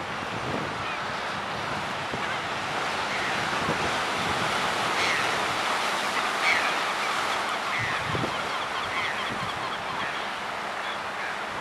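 A seabird colony calling continuously, many birds at once in a dense overlapping chatter, over a steady rush of wind and surf.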